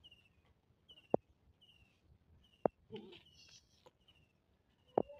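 A small bird chirping over and over, short high chirps that fall slightly in pitch, about one to two a second. Three sharp clicks stand out louder than the chirps.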